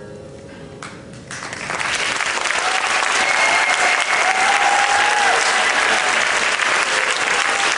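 Audience applause that breaks out about a second and a half in as the music stops, builds quickly, then holds steady and loud.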